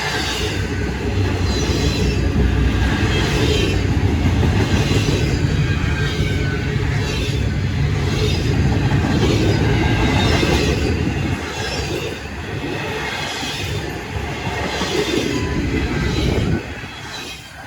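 Freight train rolling past: a heavy low rumble with a regular clatter of wheels over rail joints about once a second. It stops abruptly near the end.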